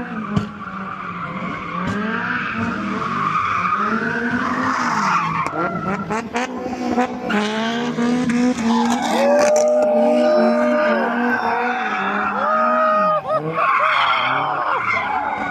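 Car engine revving up and down hard while the tyres squeal and screech, as in doing donuts. A steady squeal tone holds for about two seconds near the middle.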